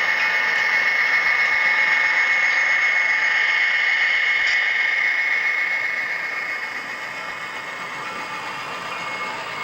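HO scale model train running on the layout: a steady high-pitched motor whine over a hiss, easing off about six seconds in.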